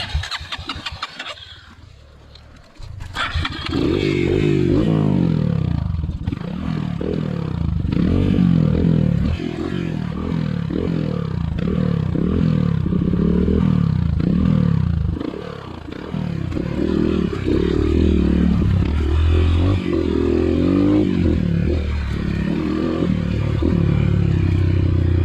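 Trail motorcycle engine revving hard about three seconds in, then rising and falling again and again under load, as when a dirt bike is ridden through rough, muddy ground.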